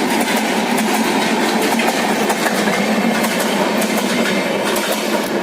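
Passenger train running at speed: a steady loud rush of wheels on rail, with faint clicks from the track throughout.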